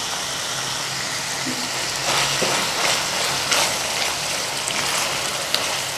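Liver pieces sizzling in oil in an aluminium pot, with a silicone spatula stirring spice powder through them from about two seconds in.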